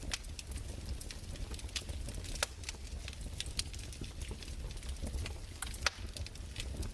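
Fireplace fire crackling: irregular sharp pops and snaps over a low steady rumble, with one louder pop near the end.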